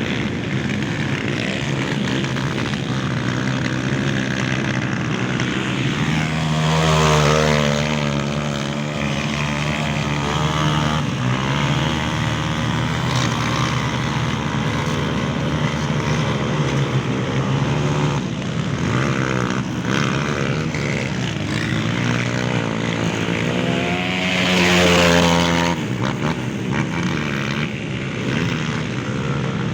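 Dirt-bike engines revving hard in mud, their pitch wavering up and down as the riders work the throttle. Two louder bursts of revving come about a quarter of the way in and again near the end.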